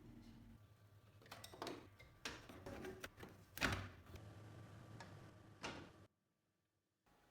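Irregular mechanical clicks and knocks from the restored Olympia Splendid portable typewriter being worked, the loudest about three and a half seconds in, then the sound cuts off abruptly.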